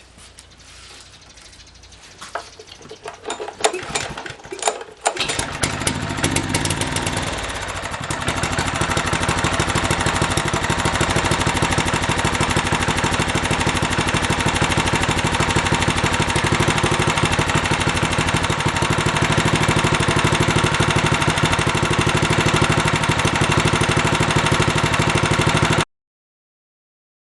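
Wing Mower slope mower's small engine being started: a few seconds of clattering, then it catches about five seconds in and runs, picking up to a louder steady speed around eight seconds in. The sound cuts off abruptly near the end.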